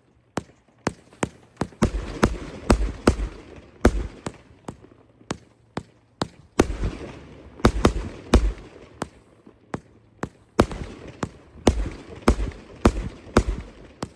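Fireworks bursting overhead: an irregular run of sharp bangs, about one or two a second, with bursts of crackling between some of them.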